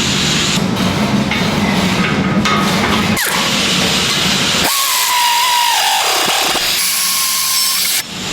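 Loud metalworking power-tool noise, changing abruptly several times. About five seconds in, a steady whine that dips slightly in pitch.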